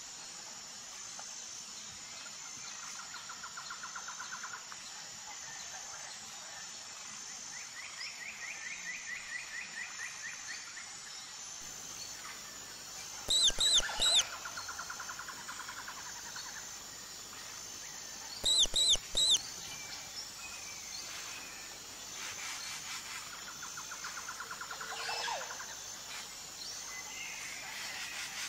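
Outdoor ambience with birds calling: short rhythmic trills every few seconds, and twice a burst of three quick, high, falling chirps that stand out as the loudest sounds.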